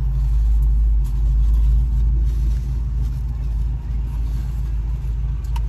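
Steady low rumble of an idling car.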